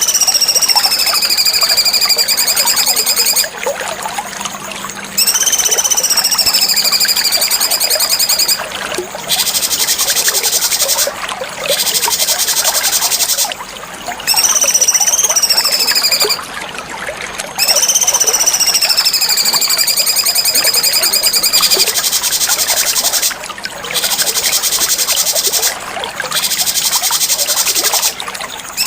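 Cucak cungkok songbird singing: a string of long, high, buzzy whistled phrases, each rising quickly and then sliding slowly down for two to four seconds, with short breaks between them.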